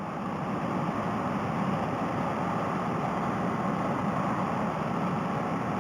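Steady rush of wind and road noise heard through a motorcycle helmet's headset microphone while riding, with the Honda Rebel 250's engine running steadily underneath.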